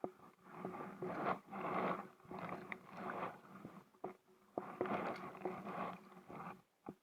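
Kayak paddle strokes in the water: a swish roughly every second, with a few light knocks of the paddle in between.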